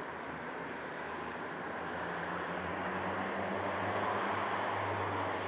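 A steady low engine drone, gradually growing louder over a haze of outdoor noise, from a vehicle not in view.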